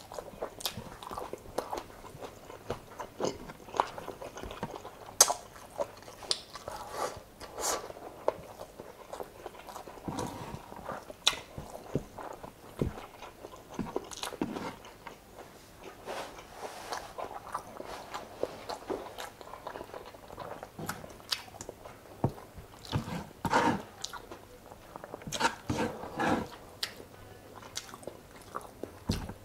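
Close-miked eating: a person chewing and biting into chicken adobo with rice, with irregular clicks throughout and a few louder ones about 23 to 27 seconds in.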